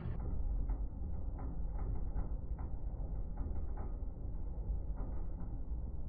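A drill boring a hole through a small forged metal pendant: a steady low mechanical run with faint, irregular clicks.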